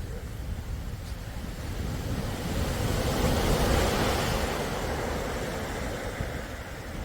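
Sea waves breaking on the shore: one wave swells to a rushing peak about three to four seconds in, then recedes, over a low rumble of wind on the microphone.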